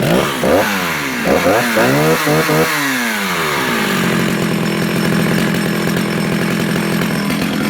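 Vintage Jonsered 49SP two-stroke chainsaw running, revved up and let fall back several times in quick blips of the throttle in the first few seconds, then settling to a steady idle.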